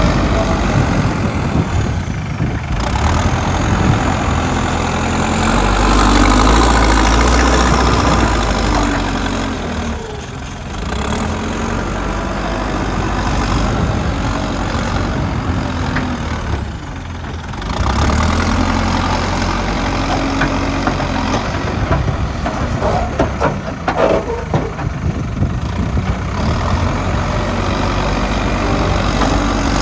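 Diesel engine of a JCB backhoe loader working, revving up under load and easing back several times. Near the middle there is a short run of clattering knocks.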